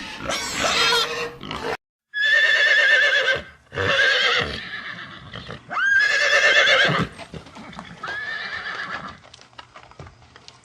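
Horse whinnying four times, each call a loud trembling neigh about a second long.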